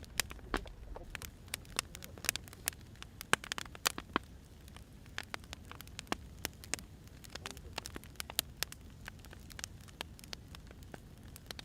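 Burning firewood crackling: irregular sharp pops and snaps, a few louder than the rest, over a low steady rumble.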